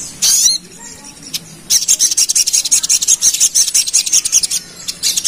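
A sogon sunbird singing a rapid, high chattering trill, its fast 'ngerap' song. A short high sweeping call comes at the start. Then, from under two seconds in, a long run of quick repeated notes follows, and it resumes near the end.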